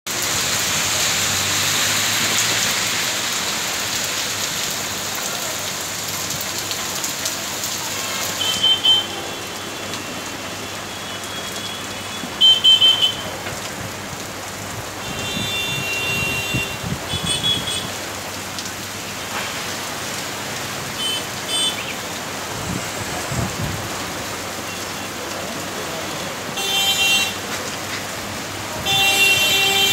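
Heavy rain pouring steadily on a street. From about nine seconds in, vehicle horns honk in short blasts several times; these are the loudest sounds.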